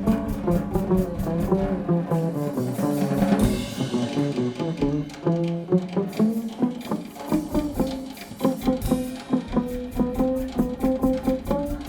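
Live band playing: a drum kit beat with bass and guitar lines. The kick and low end drop out for a few seconds twice, then the full groove comes back.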